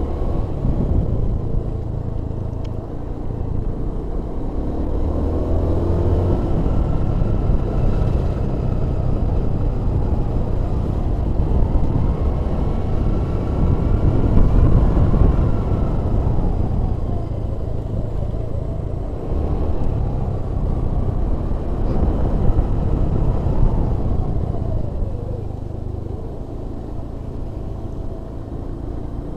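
A vehicle's engine and road noise on the move, with a steady low rumble. The engine pitch rises and falls several times as the revs change along the road.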